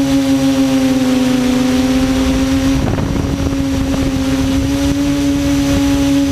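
Quadcopter motors and propellers humming at a steady pitch in flight, sagging slightly in pitch about a second in, with a brief rough patch about three seconds in.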